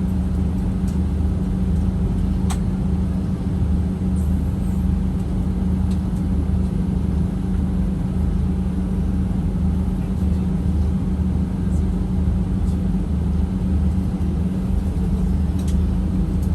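Steady drone of an airliner's jet engines heard inside the passenger cabin, a constant low hum with a faint pulsing throb beneath it.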